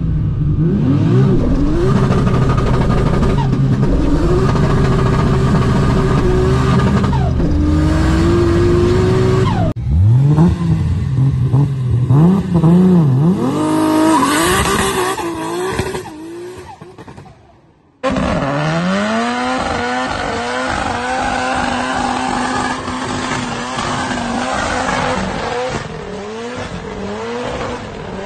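Performance car engines revving hard in three short clips. First an engine pulling up through the gears, its pitch climbing and dropping at each shift. Then a Nissan Silvia S15 blipping its throttle and fading away, then an engine held at high revs with tyre squeal as the car power-skids.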